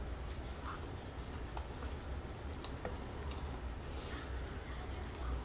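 Faint chewing and small mouth clicks from a person eating a soft bite of egg with sauce, over a low steady hum.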